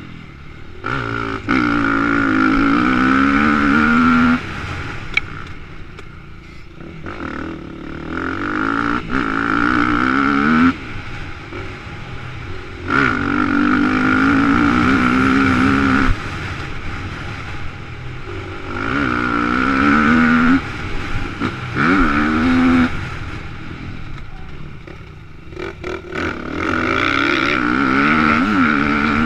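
Motocross dirt bike engine, heard from a helmet-mounted camera, revving hard in repeated surges that climb in pitch, dropping away between them as the throttle is shut off, about half a dozen times.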